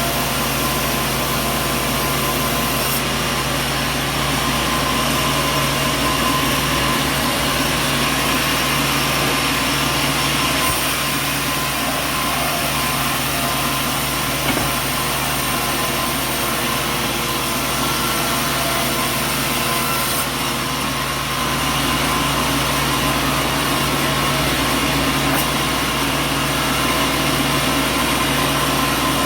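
Sawmill machinery running steadily: a loud, continuous mechanical drone with several constant hum tones.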